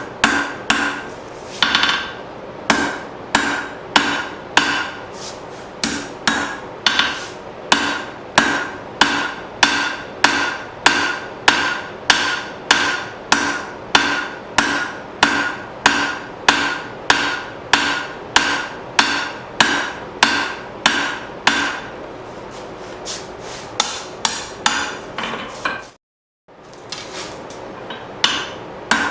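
Hand hammer striking hot 1/2-inch round steel stock on an anvil while drawing out a taper: a steady run of ringing blows, about two a second. The blows stop about 22 seconds in, and after a brief dropout they start again near the end.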